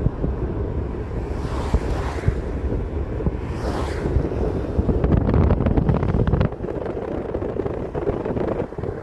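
Wind buffeting the microphone: a steady low rumble with gusts, loudest and crackling from about five to six and a half seconds in.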